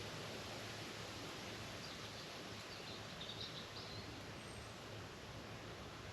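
Faint steady outdoor hiss with a few short bird chirps between about two and four seconds in.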